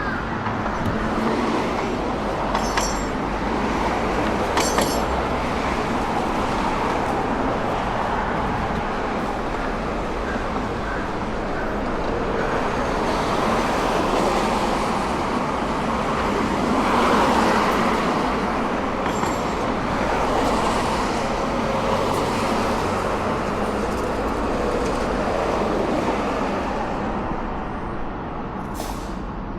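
Road traffic running steadily, swelling as vehicles go by, with the loudest pass a little past halfway.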